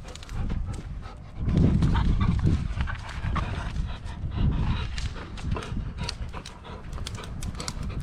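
A dog panting close to the microphone in irregular, rough breaths, loudest from about a second and a half in, with scattered light clicks.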